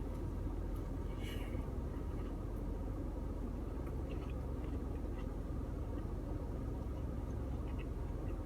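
Steady low rumble, with a few faint crunchy clicks of someone chewing a crispy fried chicken sandwich.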